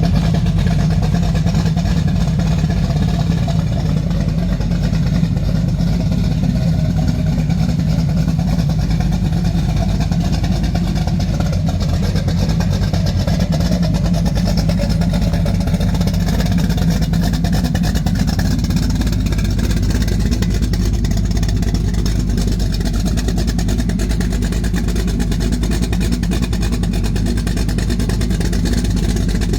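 The built 383 stroker small-block V8 of a 1967 Chevrolet Camaro, running steadily at a fairly constant speed.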